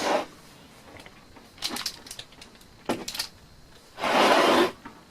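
A few light clicks and knocks of things being handled in a small room, then a short loud rush of air about four seconds in.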